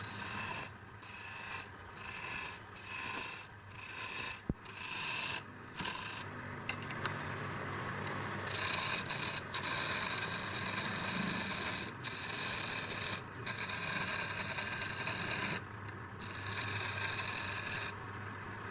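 Repeated rubbing and scraping of a tool working wood, broken by short pauses about every second early on, with a steady high whine through much of the second half.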